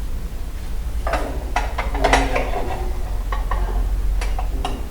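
Dishes and utensils clinking and knocking as they are handled during hand washing, a string of short sharp clacks, some with a brief ring, about seven in all from about a second in. A steady low rumble runs underneath.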